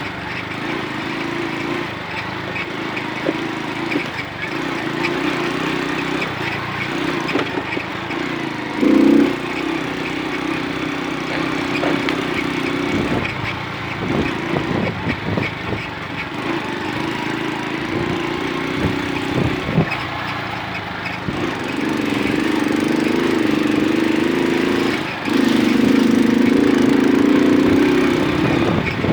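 Small moped engine running under way, its pitch and level rising and falling with the throttle and getting louder in the last few seconds, with scattered knocks and noise.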